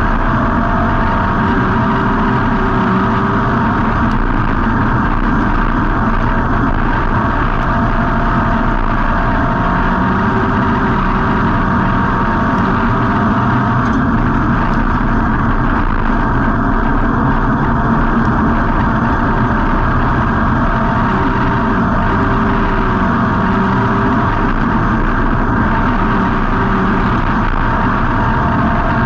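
Street stock race car's V8 engine running steadily, loud and close as heard from inside the car, with no big swings in engine speed.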